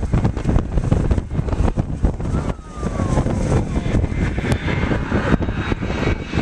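Wind buffeting the microphone: a heavy, gusting low rumble that rises and falls in quick bursts.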